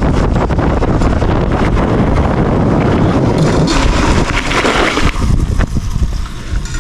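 Wind buffeting the microphone while riding a dirt bike, a loud rushing noise that eases off about five seconds in.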